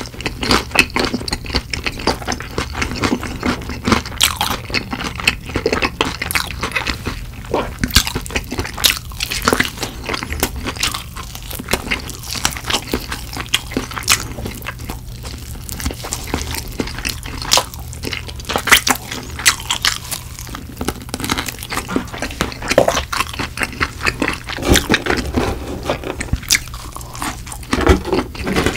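Close-miked biting and chewing of crispy fried chicken: a dense, irregular run of crunching crackles from the coating.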